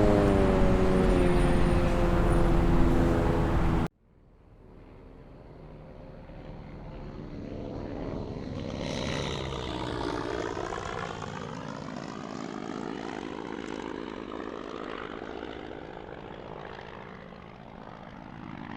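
Sound effect of a propeller aeroplane. A loud engine runs for about four seconds and cuts off abruptly. Then a plane flies past: it grows louder, its pitch dips as it passes about ten seconds in, and it slowly fades.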